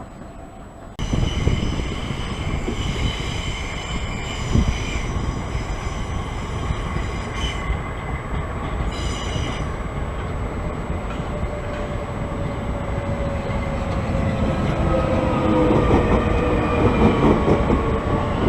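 Electric passenger train running on the rails, starting abruptly about a second in: a steady rumble of wheels with a high squeal over it, then a whine falling in pitch near the end.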